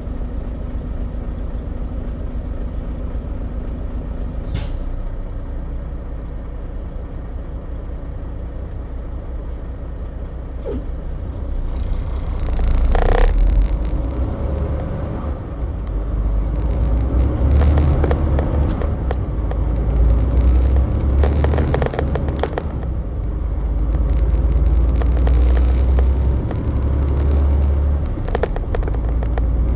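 Semi truck driving: a steady low engine rumble with road noise. It gets louder about twelve seconds in, with several short bursts of hiss.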